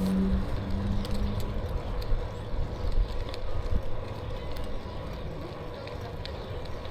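Wind rushing over the microphone and tyre rumble from an e-bike being ridden along a paved trail. A steady hum is heard for the first second and a half, and there are a few light clicks.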